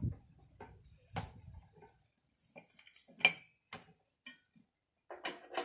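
Scattered light clicks and knocks of objects being handled, irregular and a few at a time, with a sharper knock about three seconds in.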